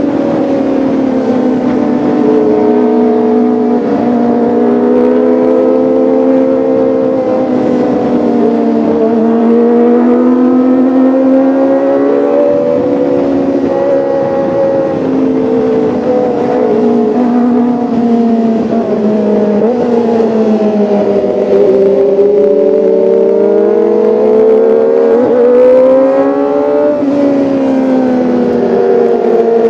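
Kawasaki ZX-25R's 249 cc inline-four engine running under throttle, its pitch continually rising and falling as it revs up and eases off, with a few quick dips and climbs.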